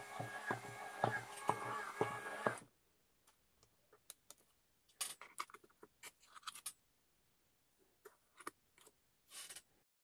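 Small electric motor of a cardboard model washing machine running with a steady whir and repeated knocks from the tumbling drum, cutting off suddenly about two and a half seconds in. Then scattered clicks and scrapes of cardboard as the round door is opened and the cloth is pulled out.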